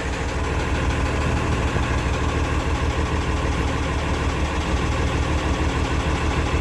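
1980 International Harvester 986 tractor's diesel engine idling steadily, just after a cold-free, easy start.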